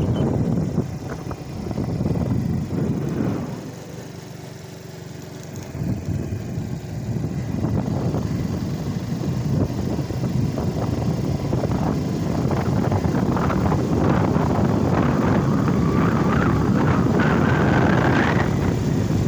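Crown HD Plus 70cc single-cylinder four-stroke motorcycle being ridden, its engine and road noise running steadily. The sound drops quieter for a couple of seconds about four seconds in, then picks up again.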